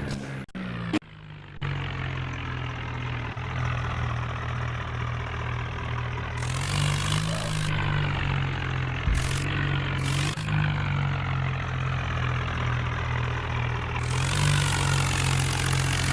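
Tractor's diesel engine idling steadily, its pitch rising briefly about six seconds in and again near the end as it is revved a little.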